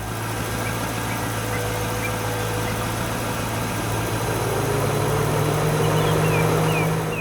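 A heavy machine's engine running steadily; about halfway through its pitch rises and it gets a little louder, as when it revs up. A few short high chirps come near the end.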